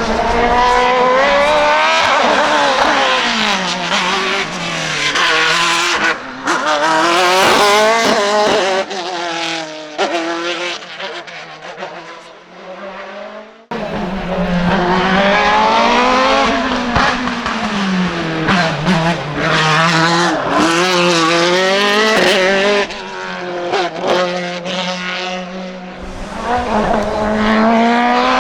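Hill-climb race car engine at full throttle, its pitch climbing and dropping again and again through gear changes and braking for corners. About two-thirds of the way through the first pass the car fades away, then a second car cuts in suddenly, loud and close, revving through the gears the same way.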